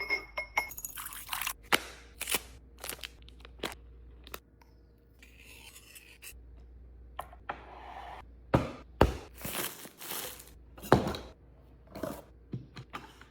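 Clear plastic storage containers and food packets being handled: a run of sharp clicks and knocks of hard plastic, with stretches of rustling and scraping in between and a few louder knocks in the second half.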